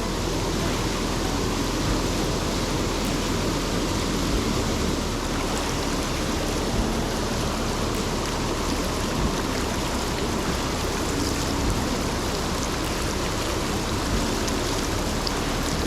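Steady rushing of river water, a fast-flowing stream heard up close.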